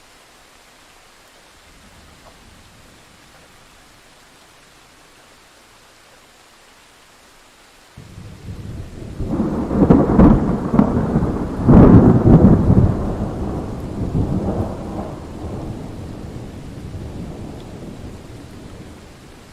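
Thunderstorm: a steady hiss of rain, then about eight seconds in a thunderclap breaks with two loud cracks a couple of seconds apart and rolls away slowly under the rain.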